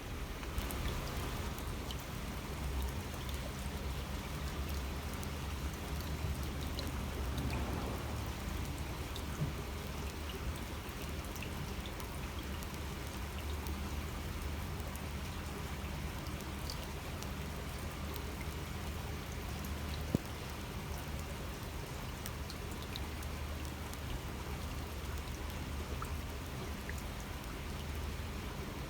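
Water babbling and trickling steadily along a shallow waterway, with scattered small drips and splashes. There is one sharper click about twenty seconds in.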